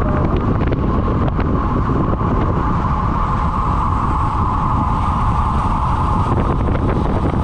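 Heavy wind buffeting on the microphone, with a steady mid-pitched hum over it that fades out about six seconds in.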